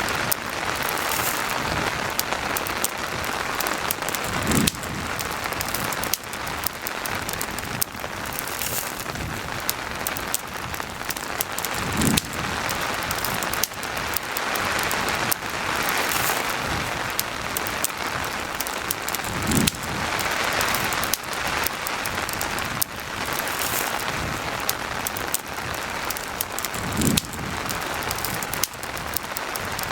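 Steady rain mixed with the crackle of a campfire, dense fine pops throughout; a short low thump comes four times, about every seven and a half seconds.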